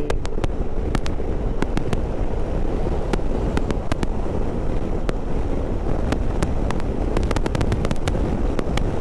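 Wind buffeting a helmet-mounted microphone on a moving motorcycle: a steady low rushing rumble, with sharp clicks scattered irregularly throughout and bunched thickly near the end.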